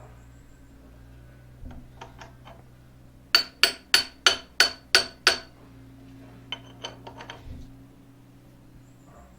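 Eight quick, ringing metal-on-metal taps, like a hammer striking steel, about three a second, with a few lighter clinks before and after. A steady low hum runs underneath.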